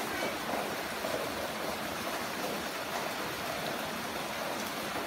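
Heavy rain falling steadily, an even rushing hiss of water.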